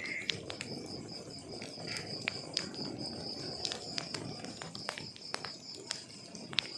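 Wood fire in a fireplace crackling, with frequent irregular sharp pops and snaps over the low rush of burning logs.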